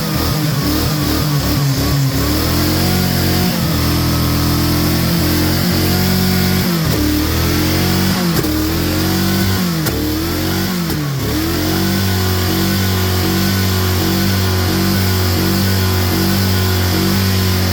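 Fox Body Mustang engine running with non-concentrated dish soap in place of its engine oil and coolant. Its speed dips and recovers several times in the middle, then holds steady.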